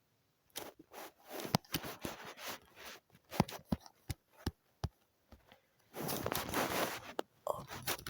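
Handling noise close to the microphone: a string of irregular taps and clicks, with a second or so of rustling about six seconds in.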